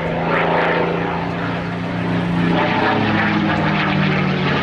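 P-51 Mustang's Merlin V-12 engine running loud and steady as the plane flies by, its pitch dropping slightly in the second half.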